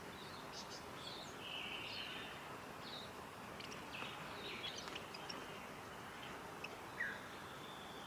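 Faint, scattered high chirps and short calls of small birds over a steady hiss of forest ambience, with a short falling call about seven seconds in that is the loudest sound.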